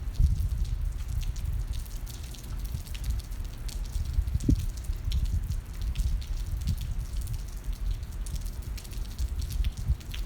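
Rain falling, heard as scattered irregular drips and ticks, over a steady low rumble.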